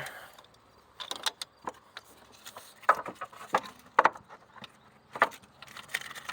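Irregular clicks, knocks and light rattles from hands working wiring harness connectors and parts in a car's engine bay, loudest about three to four seconds in and again near five seconds.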